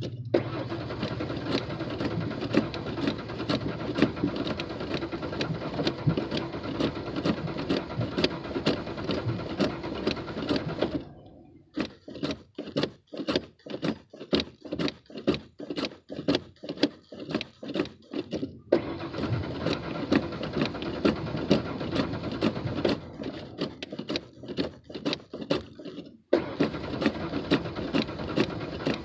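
Car engine being cranked by the starter without catching, hard starting, in long bouts of steady cranking with a rapid rhythmic beat. Twice the cranking stops for several seconds, and a sharp rhythmic clicking, about three a second, keeps going through the pauses.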